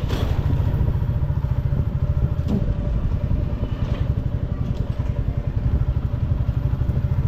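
Motorcycle engine running steadily at low speed in street traffic, with a short click about two and a half seconds in.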